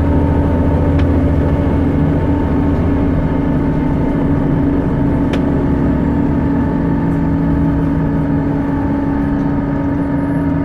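First Leeds bus 61036 running, with a steady drone and a constant whining hum over its engine rumble. These are the unusual noises the bus is making. The low rumble eases a little about three seconds in.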